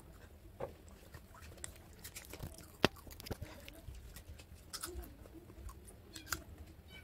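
A child eating close to the microphone: chewing and biting food, with scattered small clicks and one sharp click about three seconds in.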